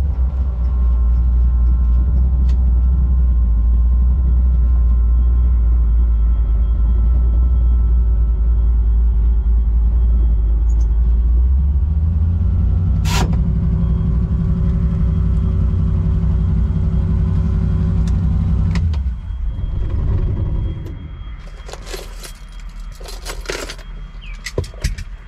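Holden HK Monaro's small-block Chevrolet V8 running under way, heard from inside the cabin as a steady low rumble, with one sharp click about halfway through. The engine sound drops away about 19 seconds in, and a few clicks and rattles follow near the end.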